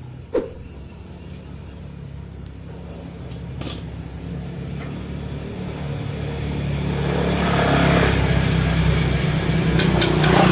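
An engine running steadily and growing louder and harder over the first eight seconds, with a sharp metallic click about half a second in and a few knocks and clicks over it.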